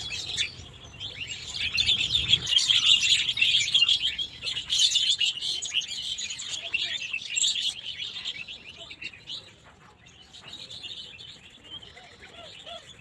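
Many small birds chirping in a dense, busy chorus, loudest through the first half and thinning out after about eight seconds. A low rumble underneath stops about two and a half seconds in.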